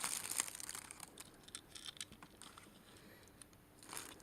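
Faint scattered clicks and light taps from handling a small plastic keychain and its packaging, with a short rustle near the end.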